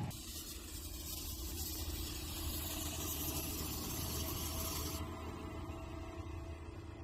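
A vehicle engine running under a steady hiss. The background changes suddenly about five seconds in.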